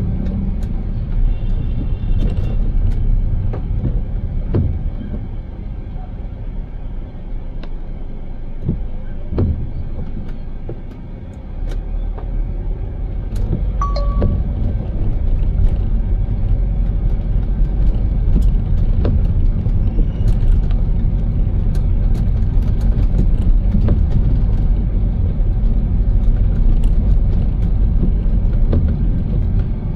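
Car driving with a steady low road rumble and scattered light ticks. The rumble eases off a little before the middle and builds again. There is a short beep about halfway.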